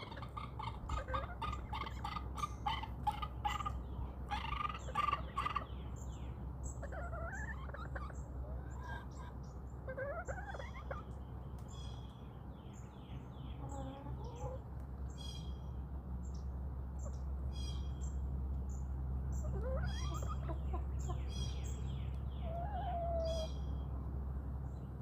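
Backyard chickens clucking in a quick run of clucks for the first several seconds, then giving occasional drawn-out, gliding calls. Small wild birds chirp high and often over a steady low hum.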